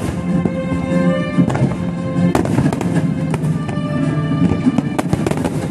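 Aerial fireworks shells bursting in a series of sharp bangs, over music with sustained notes.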